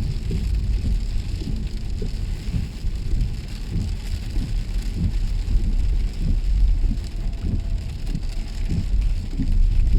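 Heavy rain falling on a moving car, heard from inside the cabin as a dense patter of drops over a steady low rumble of engine and tyres.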